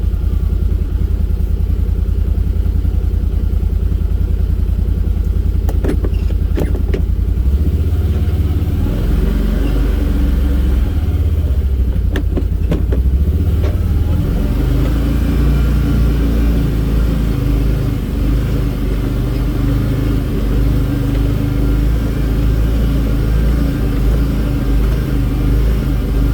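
Vehicle engine running steadily while driving along, its note shifting about eight and fourteen seconds in, with a few sharp knocks or rattles about six and twelve seconds in.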